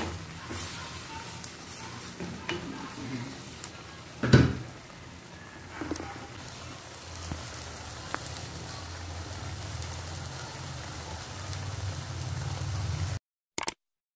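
Egg, tuna and spinach sizzling in a frying pan, with scattered small ticks and one louder knock about four seconds in. The sizzle cuts off suddenly shortly before the end, followed by a couple of short clicks.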